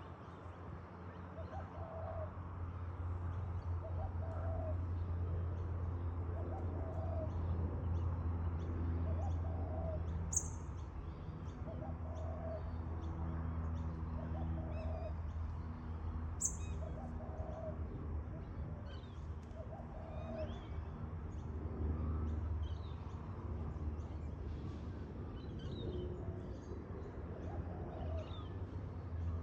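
A bird calling one short, low note over and over, about once a second, for most of the first twenty seconds, with small birds chirping faintly. A steady low rumble runs underneath, and two sharp clicks sound about ten and sixteen seconds in.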